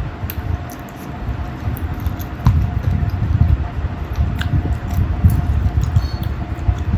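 Chewing food close to the microphone: irregular low, pulsing mouth sounds with scattered small wet clicks and smacks, over a faint steady hum.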